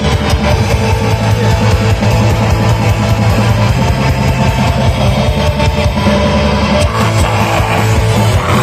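Metal band playing live and loud: distorted electric guitars over dense, rapid drumming, with no vocals.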